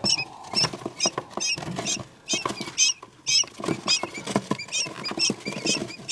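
Newly hatched quail chicks peeping, short high wavering peeps about twice a second, with faint light taps between them.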